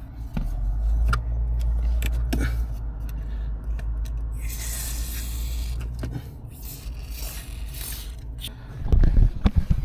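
Aerosol silicone spray hissing in one burst of about a second and a half, about halfway through, as it lubricates a squeaking clutch pedal mechanism. Low rumbling handling noise and clicks come before it, and loud low knocks come near the end.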